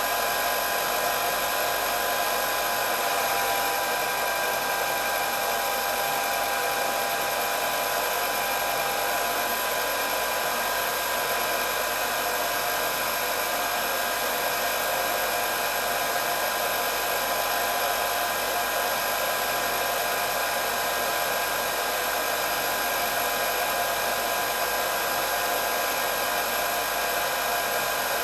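Electric hair dryer running steadily: an even rush of blown air with a constant motor whine of several fixed pitches.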